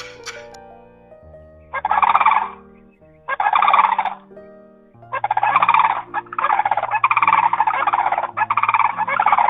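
Domestic fowl calling in loud, rapid rattling bursts, starting about two seconds in and running almost continuously near the end, over soft background music with held notes.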